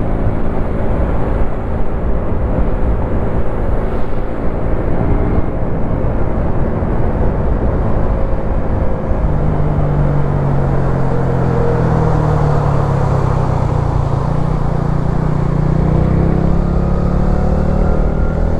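A Wolf Classic 125cc single-cylinder motorcycle engine running under way, with wind rumbling on the microphone. About halfway through the engine note grows stronger, and it then climbs steadily in pitch as the bike picks up revs.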